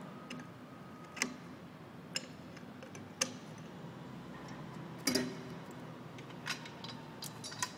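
Several sharp clicks and clacks, roughly a second apart and loudest in a short cluster about five seconds in, as spare pin caps are handled and fitted onto the pins of a Lektro tug's nose-wheel receiver.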